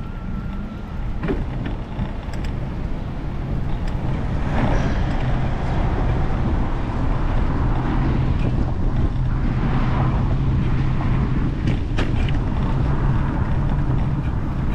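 Road traffic: a motor vehicle's engine running close by with a steady low hum, growing louder about four and a half seconds in, over road and wind noise.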